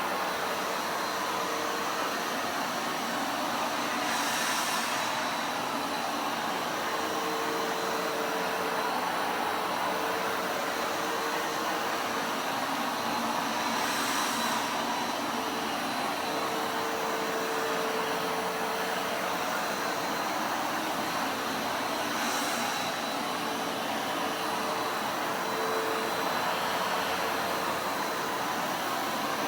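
Vacuum cleaner running steadily, a constant hum under its airflow hiss. The hiss brightens briefly three times.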